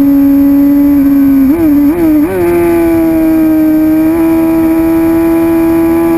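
2006 Suzuki GSX-R750's inline-four engine running loud at high, steady revs. About one and a half seconds in the pitch wobbles three times in quick succession, then holds a little higher.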